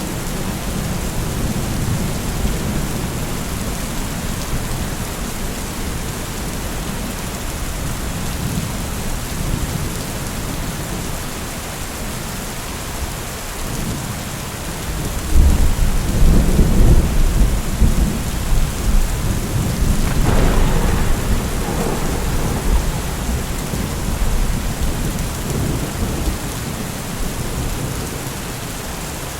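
Steady rainfall with rolling thunder. About halfway through, a louder, deep rumble of thunder swells and rolls on for several seconds before fading back under the rain.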